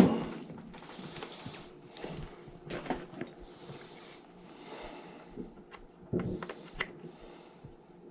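Handling noises: a sharp knock right at the start, then scattered light clicks and taps, with soft puffs of breath-like noise in between.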